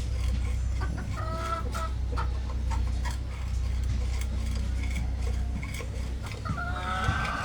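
A chicken clucking twice in the background, about a second in and again near the end, over a steady low electrical hum and small clicks.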